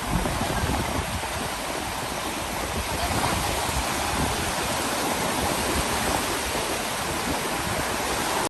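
Ocean surf washing onto a beach, a steady continuous rush of breaking waves.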